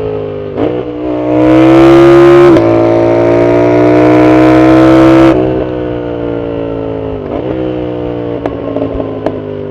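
Yamaha MT-07's 689 cc CP2 parallel-twin through a loud full exhaust, accelerating hard with two quick upshifts in the first few seconds, then pulling at high revs. About halfway through the throttle closes and the engine falls away on the overrun, with a short rev rise around the middle of the deceleration and scattered sharp pops from the exhaust near the end.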